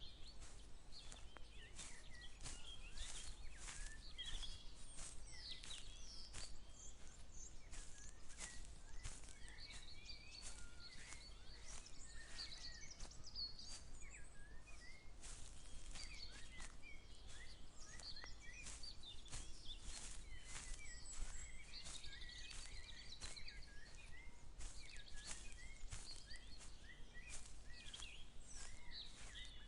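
Several small birds chirping and singing throughout, over frequent short, irregular rustling crunches of footsteps walking through vegetation.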